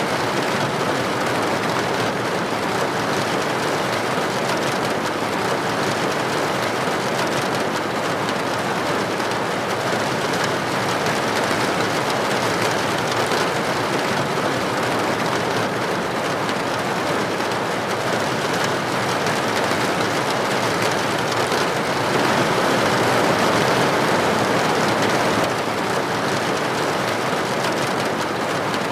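Steady heavy rain falling, an even hiss of drops with no distinct patters. It swells a little about three-quarters of the way through, then drops back abruptly.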